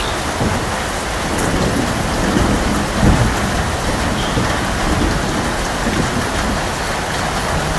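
Steady heavy rain falling, with low rolling thunder rumbling under it that swells to its loudest about three seconds in.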